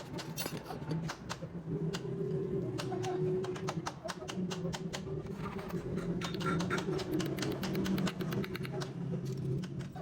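Rapid, irregular light clicks and taps of hand tools and metal parts being handled while a small motorcycle engine is assembled, over a low murmur of voices.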